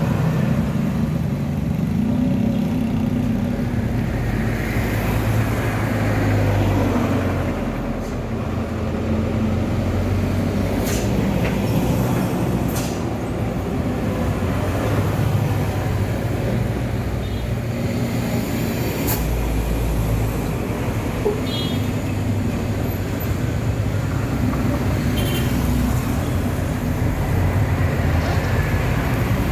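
A steady low motor rumble, like running engines or traffic, with a few sharp clicks.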